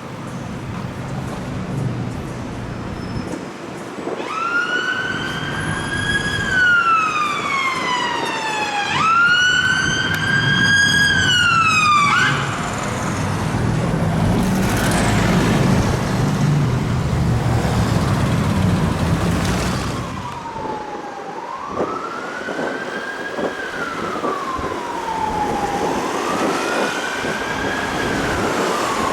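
Emergency vehicle siren on wail, each cycle rising quickly and then falling slowly over a few seconds, with a heavy vehicle engine and road noise passing loudly in the middle and the wail returning after it.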